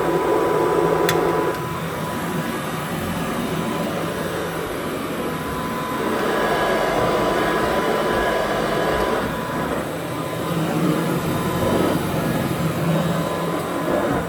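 Rebuilt Kirby 517 upright vacuum cleaner running, a steady motor-and-fan noise with a thin whine, swelling and easing every few seconds as it is worked. A sharp click about a second in.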